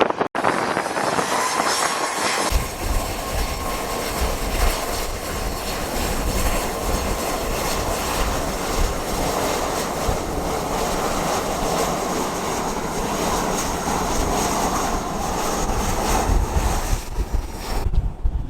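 Jet engines of an arriving Boeing 737-900ER, with a high whine in the first couple of seconds. Wind buffets the microphone with a low rumble from about two and a half seconds in.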